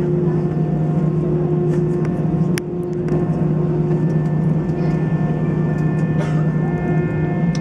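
Airbus A320 cabin noise from a window seat: the CFM56 engines running at taxi idle, a steady hum with several held tones, and one sharp click about two and a half seconds in.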